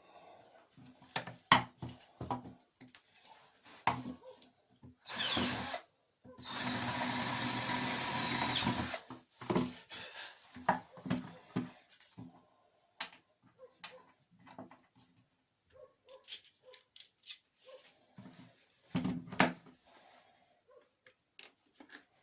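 Power drill drilling holes in a metal detector's repaired upper shaft for the control box mount: a short burst, then a steady run of about three seconds. Clicks and knocks of parts being handled come before and after.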